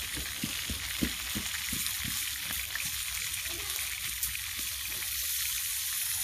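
Steady sizzling hiss, with small crackles and a few pops in the first second or so, from food cooking in a cast iron pan over a campfire.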